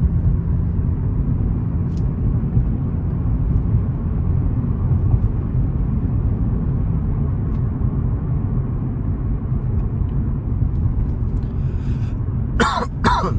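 Infiniti G35's VQ35DE V6, with Tomei cams and gutted catalytic converters, running with a loud, uneven low rumble. A person coughs twice near the end.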